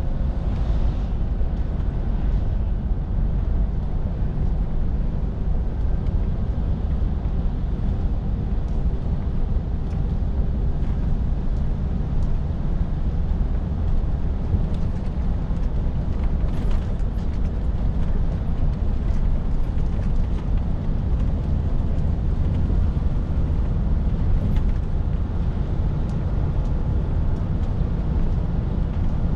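Scania R450 lorry on the move: a steady low drone of its 13-litre straight-six diesel mixed with road and tyre noise, holding even throughout.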